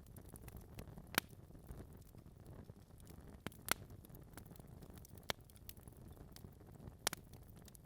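Wood fire in a fireplace crackling: a soft low rumble of flames with sharp snaps and pops from burning logs, the loudest at about one, three and a half, and seven seconds in.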